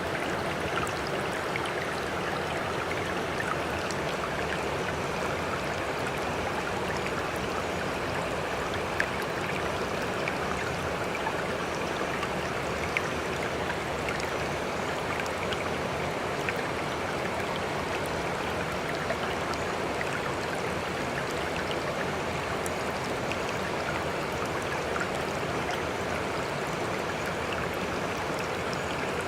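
Sea water making a steady, continuous rush without rising and falling swells, with small drip-like ticks scattered through it.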